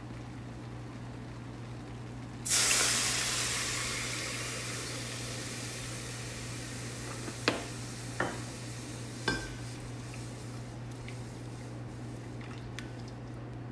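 Food dropped into hot oil in a pan: a sudden loud sizzle about two and a half seconds in that slowly settles to a steady frying hiss. A few sharp clinks of a utensil against the pan follow.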